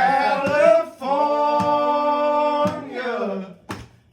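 A man singing. About a second in he holds one long note for nearly two seconds.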